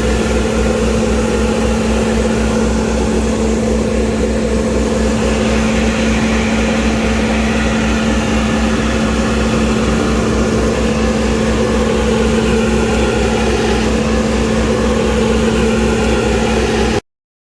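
A Scania Naaktgeboren Vacu-press 8000 vacuum loader truck running steadily: a constant hum over a low, even pulse. It cuts off abruptly near the end.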